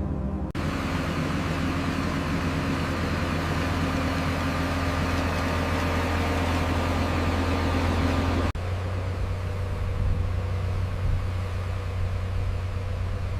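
Diesel engine of heavy road-construction machinery running steadily with a deep drone. The sound changes abruptly twice, about half a second in and again about eight and a half seconds in, when a brighter, hissier machine noise starts and then drops away.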